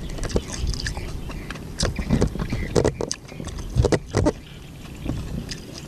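Close-up mouth sounds of a person eating saucy rice cake by hand: irregular wet chewing clicks and lip smacks, over a steady low rumble of wind on the microphone.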